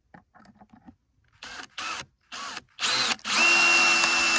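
Electric drill: a few light knocks, then the trigger pulled in three short bursts, then held for a longer steady run with a high whine near the end.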